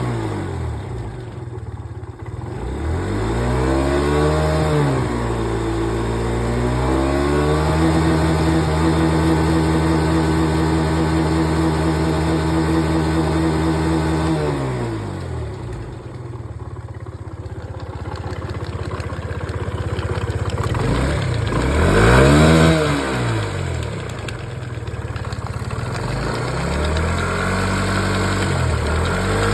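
Suzuki Let's 4 scooter's 49 cc four-stroke single-cylinder engine running, its throttle opened a few seconds in and held at a steady higher speed for several seconds, then dropping back to idle. It is revved up and let fall twice more in the second half.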